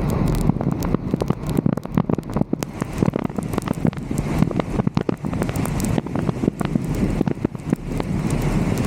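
Wind buffeting the microphone of a roof-mounted camera, a steady low rumble, with many sharp ticks and crackles scattered throughout.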